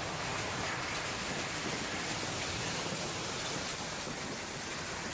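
Heavy rain and strong wind making a steady, even hiss.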